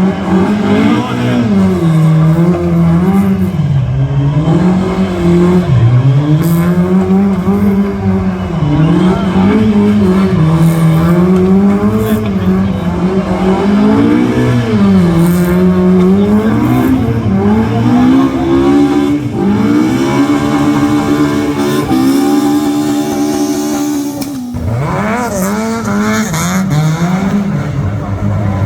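A rally car's engine revving hard, its pitch rising and falling again and again as the car is thrown through a slalom, with tyres squealing. Near the end the revs hold high and steady for a few seconds, break off briefly, then climb again.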